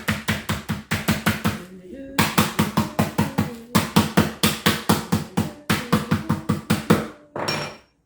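Chicken breasts being pounded flat with a meat beater on a board, in fast regular blows of about five a second, with two short breaks.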